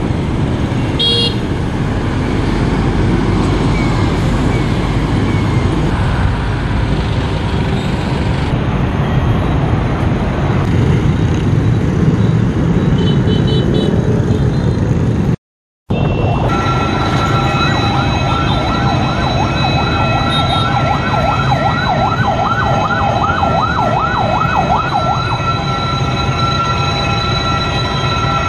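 Train rolling through the station with a loud rumble. After a brief break in the sound just past halfway, steel wheels squeal on the rails in a steady high-pitched tone that wavers in pitch for several seconds over the rumble.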